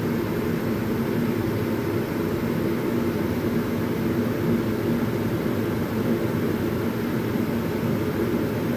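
Chevrolet 5.7-litre tuned-port-injection V8 in a 1990 Jeep Wrangler YJ idling steadily.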